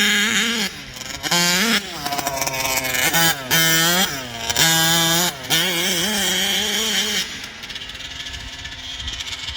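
Gas engine of a 1/5-scale RC outlaw car revved in repeated throttle blips, its pitch rising, holding and falling. About seven seconds in it drops back to a quieter, rougher running.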